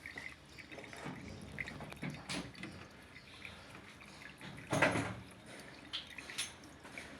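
Scattered small clicks and knocks, with one louder knock about five seconds in.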